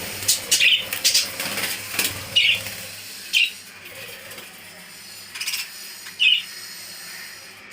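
Budgerigars in a colony aviary giving short, sharp chirps, with wings fluttering. The calls come in a quick run over the first three and a half seconds, and another chirp follows about six seconds in.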